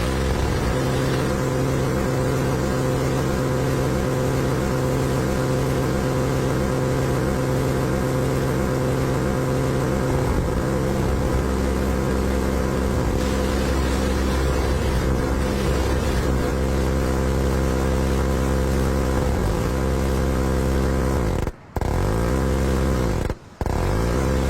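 Electric fan running with a loud, steady, engine-like droning buzz, briefly cutting out twice near the end.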